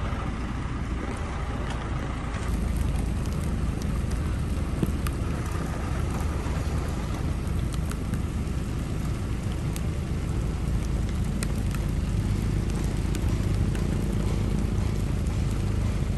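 Steady rain with a low wind rumble on the microphone and scattered sharp raindrop ticks. The rumble grows a little stronger about two-thirds of the way through.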